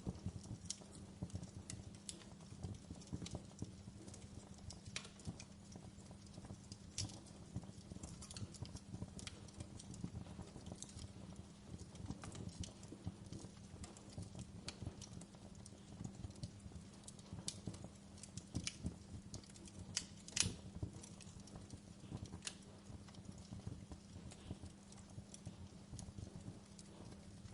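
Wood fire crackling in a fireplace: irregular small pops and snaps over a steady low hum, with one louder pop about twenty seconds in.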